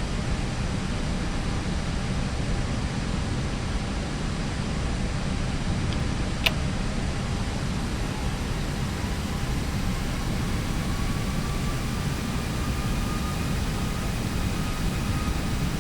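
Steady flight-deck noise of an Airbus A321neo on approach: a low rush of airflow and air-conditioning. There is a single sharp click about six and a half seconds in, and a faint tone that rises slowly from about ten seconds in.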